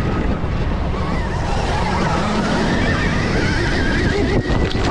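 Wind buffeting the microphone from riding at speed, with the high whine of a Stark Varg electric dirt bike's motor rising and falling with the throttle.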